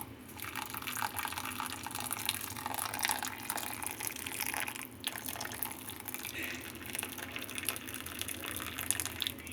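Hot water being poured into a container, a steady pouring and filling sound with a brief break about halfway through.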